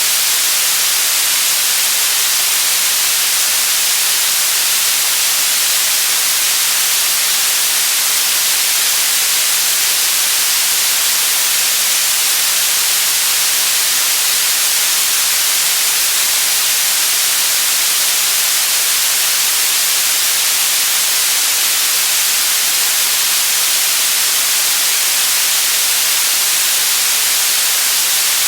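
Continuous white noise: a loud, even hiss that never changes, with most of its weight in the high range.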